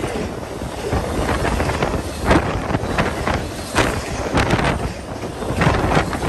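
Long freight train rolling past with irregular sharp knocks, and wind buffeting the microphone.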